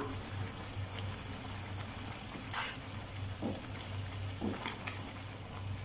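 Ground masala paste sizzling softly in oil in a nonstick kadai, with a few faint knocks and scrapes of a wooden spatula stirring it.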